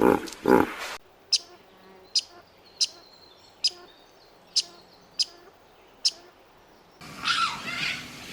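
A series of seven short, sharp, high chirps, about one every three-quarters of a second, typical of a small bird calling. A louder, lower animal call cuts off about a second in, and a louder, busier sound starts near the end.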